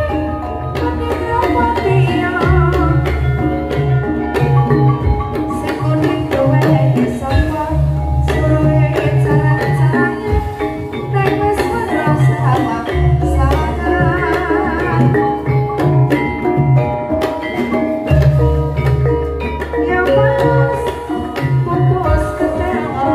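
Javanese gamelan music: kendang hand drums beating under the ringing metallophones, with a sinden singing a wavering, vibrato-laden vocal line.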